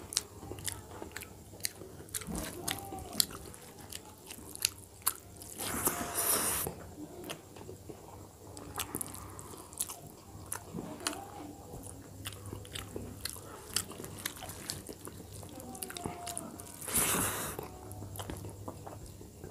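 Close-miked mouth sounds of a man eating rice and dal by hand: wet chewing and lip smacks in quick, irregular clicks. Twice, about six seconds in and again near the end, a louder noisy rush lasts about a second.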